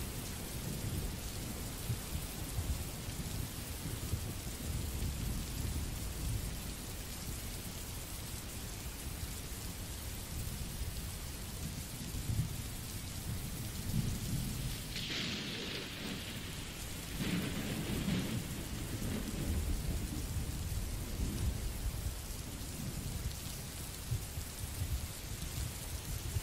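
Recorded rain sound effect: steady rain hiss over a low rumble. A brighter, sharper rush comes about fifteen seconds in, and again a couple of seconds later.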